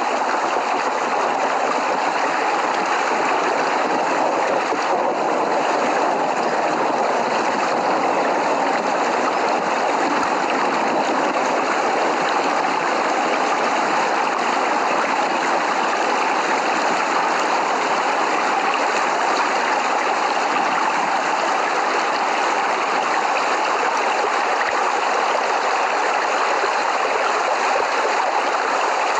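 Steady, heavy rain falling as an even hiss, with no thunder in this stretch.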